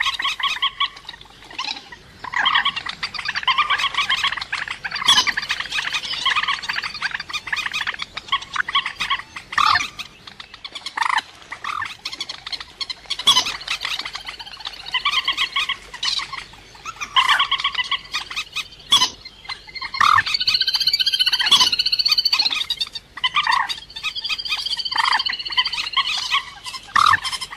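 Calls of the cuốc biển, a Vietnamese waterbird of the rail family, played as a lure recording for trapping: runs of rapid, pulsed calls a few seconds long, overlapping, with short gaps between.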